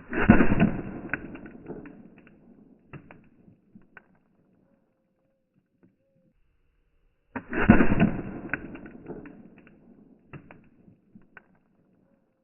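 Homemade potato cannon firing a buckshot canister of poppets: a sudden loud blast that fades over about two seconds with scattered cracks and clicks trailing after it, heard twice about seven seconds apart.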